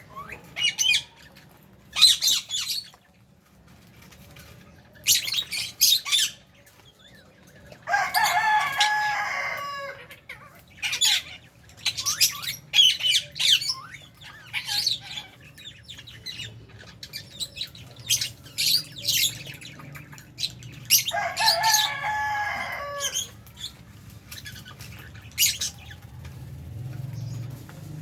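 Aviary flock of lovebirds and budgies chirping and screeching in short, high-pitched calls. Two longer, lower calls, each about two seconds, stand out about eight seconds in and again near 21 seconds.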